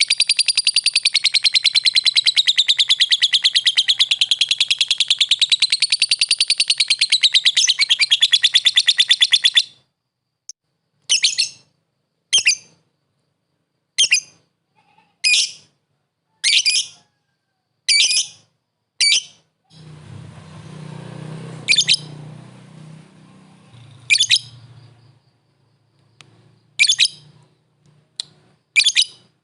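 Lovebird giving a long, very fast chattering trill (the 'ngekek') for about ten seconds, its pitch wavering, then breaking off into single short chirps about every second or so. A low rumble sits under the chirps for a few seconds in the second half.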